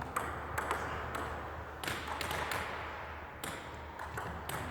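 Table tennis ball making several sharp clicks at irregular intervals as it is hit and bounces on the table.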